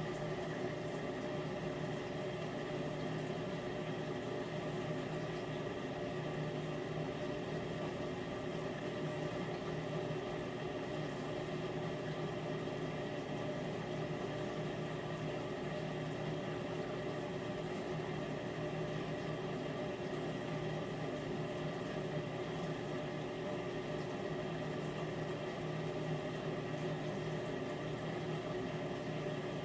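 Miele dishwasher running its wash cycle, circulating water with a loud, steady hum carrying several steady tones, which the owner believes comes from the circulation pump or its motor.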